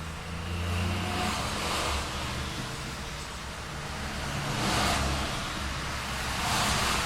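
City street traffic: cars passing one after another, each a swell of tyre hiss over a steady low engine rumble, about four passes in a few seconds.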